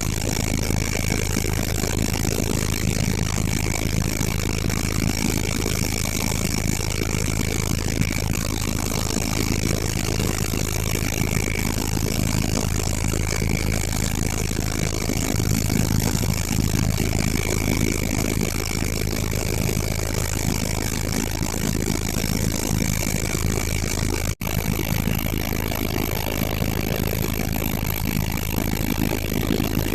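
Helicopter engine and rotor noise heard from inside the cabin: a loud, steady drone with a constant whine, cutting out for an instant about 24 seconds in.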